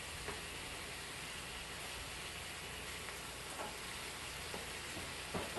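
Seasoned chicken strips frying in a pan, a steady sizzle, with a few faint clicks of a utensil now and then.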